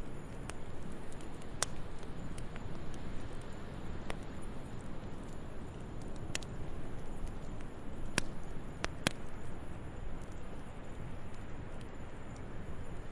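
Wood fire crackling in a fireplace: a steady low rustle with scattered sharp pops, the loudest two about eight and nine seconds in.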